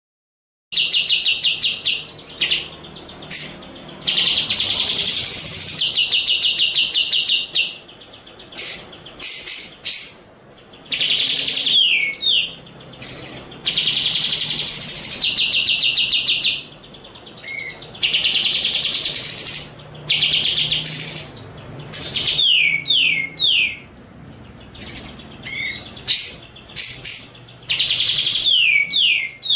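A songbird singing loud, rapid trills held for a second or more at a time, alternating with quick falling whistled notes and short chirps. The song starts about a second in, after silence.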